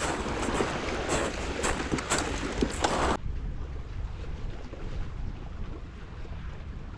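Wind buffeting the microphone at the seashore, with a low rumble of sea and wind. It crackles harshly for the first three seconds, then cuts off abruptly to a duller, quieter rumble.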